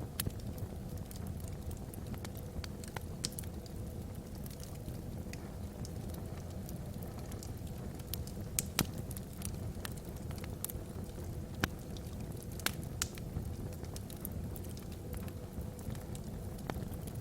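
Wood fire burning in a fireplace: a steady low rumble of flames with scattered sharp crackles and pops from the burning logs, a few louder pops in the middle.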